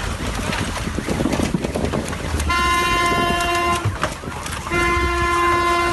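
A car horn sounds two long, steady blasts, each a little over a second, over a constant noisy rumble.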